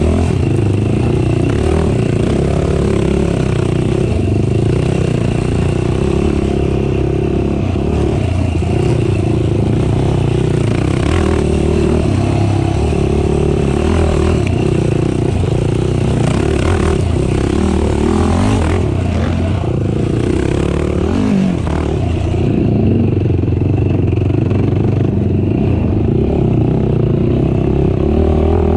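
A racing ATV's engine running hard under load, its pitch rising and falling with the throttle, with scattered knocks over the top.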